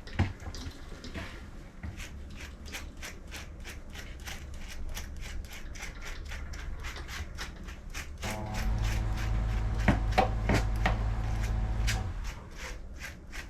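A grooming brush stroking quickly and repeatedly through a puppy's damp coat, about three strokes a second. A steady machine hum comes in about eight seconds in and stops about four seconds later, the loudest part.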